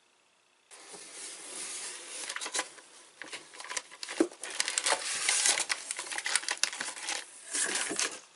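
Plastic snack wrappers crinkling and crackling as packets are handled and rummaged through. It starts about a second in and keeps on in dense, irregular crackles until near the end.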